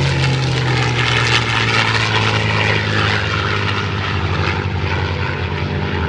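P-51 Mustang's V-12 piston engine and propeller droning loudly as it flies past, the note falling steadily in pitch as the plane moves away.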